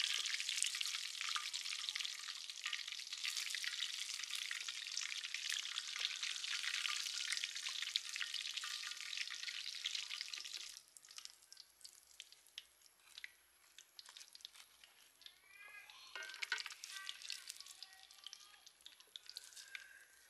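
Chicken legs deep-frying in hot oil in a wok, a dense crackling sizzle that cuts off suddenly about halfway through. After that it is much quieter, with scattered faint ticks and a short chirp.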